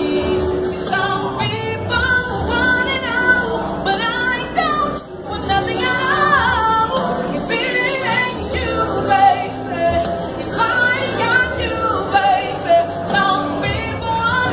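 A woman singing, holding long notes and sliding between pitches, with a short break about five seconds in.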